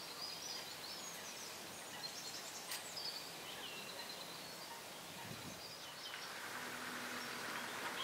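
Birds chirping in the background, short high calls every second or so, over a steady outdoor background hiss.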